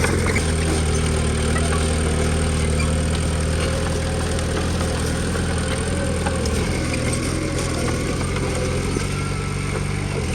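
Komatsu D20P bulldozer's diesel engine running steadily, its note shifting slightly about half a second in and again near the end.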